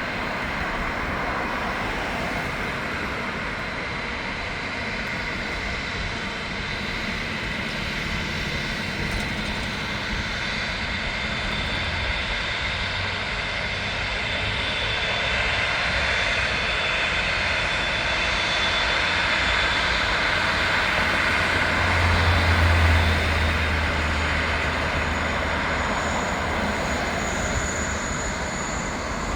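Jet airliner's engines running with a steady rushing roar and whine that slowly builds, peaks with a deep rumble about two-thirds of the way through, then eases.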